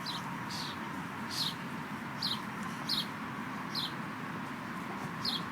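A bird calling over and over, short high chirps that slide downward in pitch, about one a second, over steady outdoor background noise.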